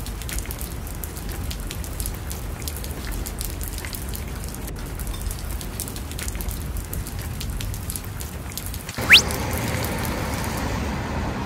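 Rain falling, a steady hiss with many small drop ticks. About nine seconds in, a brief, loud rising whistle sweeps up in pitch, and the rain hiss carries on after it.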